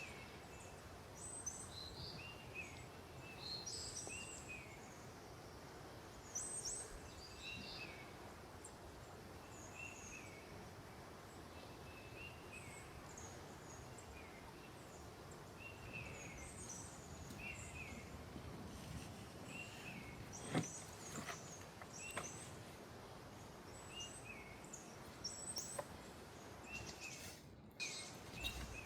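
Small birds chirping: short, repeated notes every second or two, some higher and some lower, over a faint steady outdoor background noise. A few brief clicks come in the second half.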